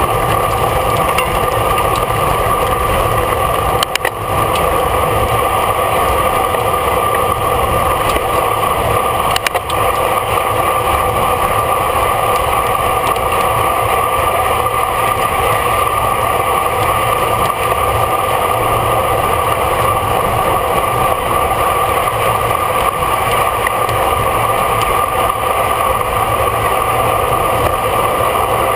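Steady rushing wind and road noise on a camera riding on a bicycle at race speed, with two brief dips in loudness about 4 and 9 seconds in.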